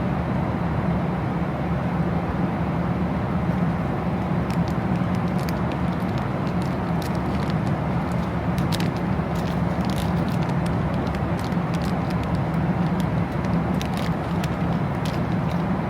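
Steady noise of a moving vehicle heard from inside: a constant rumble with a low hum, and faint light clicks scattered through the second half.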